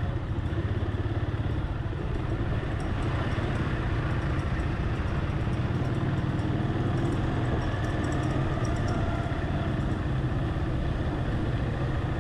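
Motorcycle engine running steadily with a low hum as it rides slowly along a narrow street.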